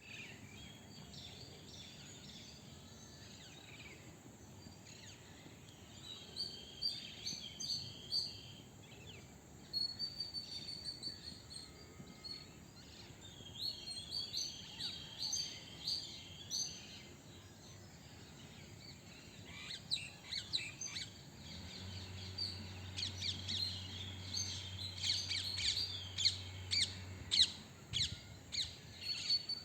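High-pitched chirping calls of small animals, in runs of quick repeated notes that grow busier in the second half. A low steady hum runs for about five seconds near the end.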